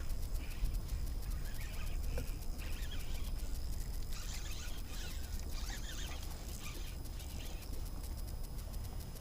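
Steady wind rumble on the microphone, with scattered soft splashes of water against a kayak.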